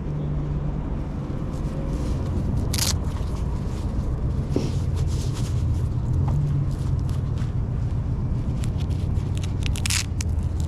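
Apollo Go electric scooter riding along, with steady road noise and a low hum under wind on the microphone. There are a few sharp knocks, the clearest about three seconds in and another near the end.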